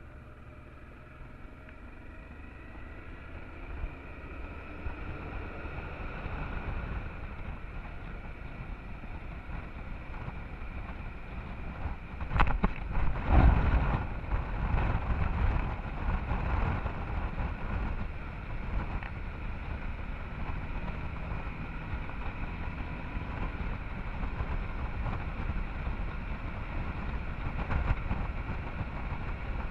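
Honda Transalp XL650 motorcycle under way, its V-twin engine running under a muffled rush of wind over the action camera's microphone. The noise builds gradually, with a louder surge about twelve seconds in that lasts a couple of seconds.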